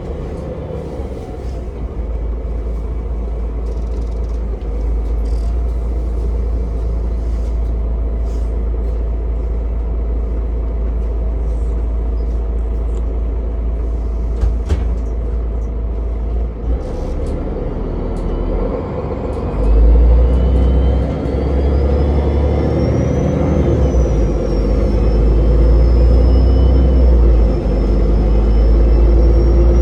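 Ride inside a city bus: steady rumble of the engine and road noise, growing heavier about two-thirds of the way through as it pulls away, with a high whine that rises and wavers near the end.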